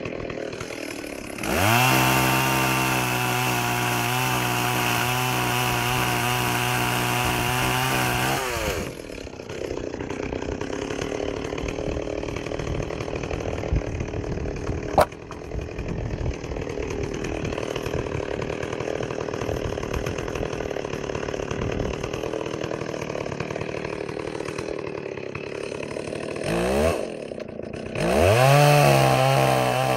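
Stihl 038 Magnum two-stroke chainsaw revving high, dropping to a lower, rougher running note for about eighteen seconds, then revving high again near the end. A single sharp crack comes about halfway through.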